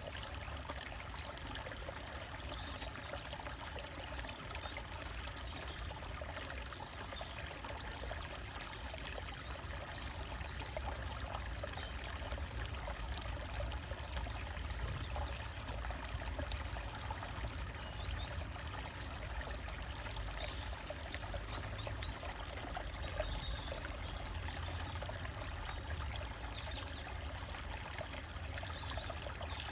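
Small forest stream trickling and splashing steadily over rocks, with a low rumble underneath and faint, short bird chirps here and there.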